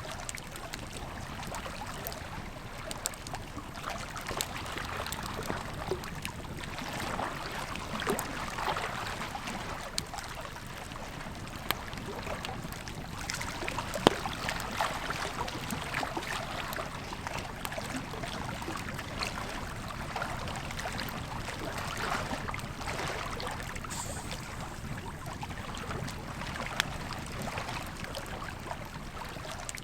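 Wood campfire crackling with scattered sharp pops, two of them louder, about halfway through and near the end, over the steady rush of a flowing river.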